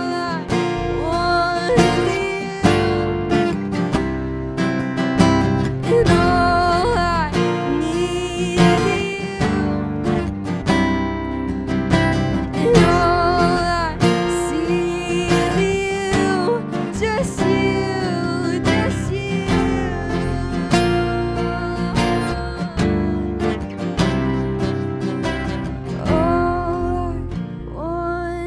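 Worship music: strummed acoustic guitar with a voice singing over it.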